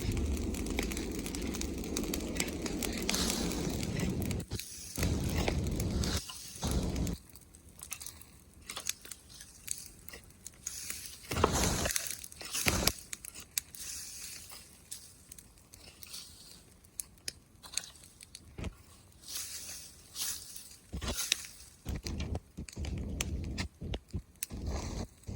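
Bonfire of branches and leaves crackling and popping. The first few seconds are a denser hiss, then come irregular sharp snaps with short quiet gaps.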